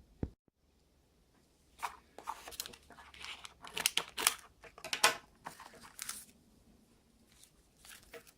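Plastic packaging being cut with scissors and torn open, crinkling, in a quick run of short sharp bursts from about two to six seconds in, then fainter handling.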